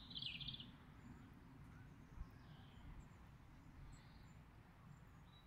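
Near silence outdoors: a small bird's chirping call trails off in the first half-second, leaving only a faint low rumble.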